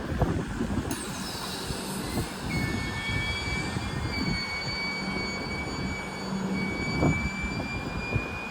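Train moving through the station: a low rumble and steady hum, with a high whine that glides downward about a second in and is followed by several steady high-pitched whines.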